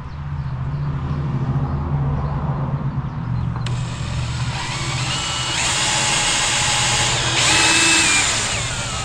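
Cordless DeWalt drill running into wood. A low motor hum holds for the first few seconds, then a louder, higher-pitched whine joins about four seconds in and steps up and down in pitch a couple of times as the load changes, before cutting off sharply at the end.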